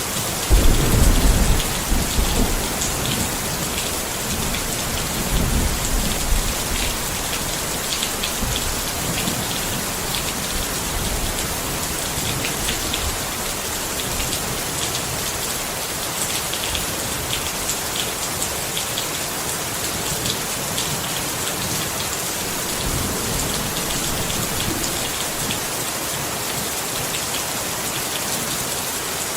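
Rain falling steadily on a tent, with rumbles of thunder about half a second in and again around five to six seconds in.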